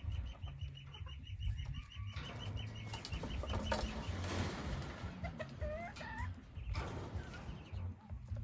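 Hybrid junglefowl clucking: a fast even run of faint ticks over the first two seconds, then a short wavering call about five seconds in, over a low steady rumble.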